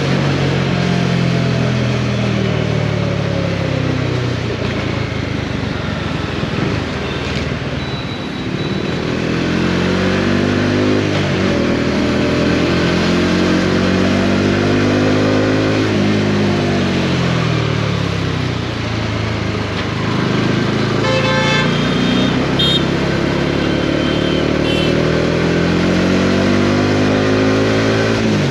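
Bajaj Dominar 400's single-cylinder engine under way, its revs falling and climbing several times through gear changes, over a steady rush of wind and road noise. A vehicle horn toots several times about two-thirds of the way in.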